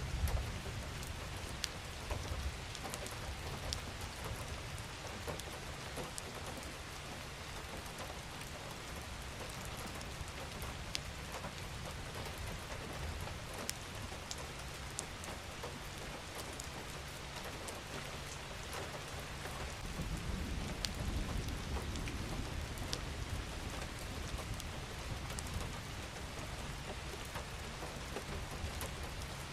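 Steady rain falling on a surface: an even hiss scattered with sharp ticks of single drops. A low rumble swells for a few seconds about two-thirds of the way through.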